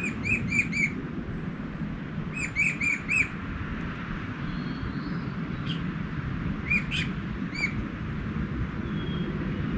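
A songbird calling in quick runs of short, clear, arched notes, about four or five to a run, three runs in all, over a steady low background rush.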